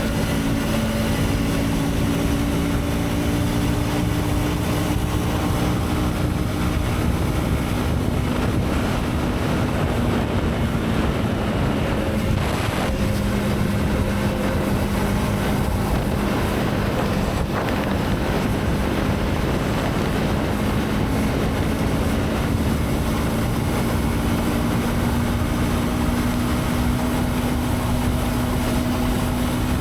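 Motorcycle engine running steadily under heavy wind noise on the microphone while riding. Its pitch sinks slowly over the first half and climbs gently again in the second half.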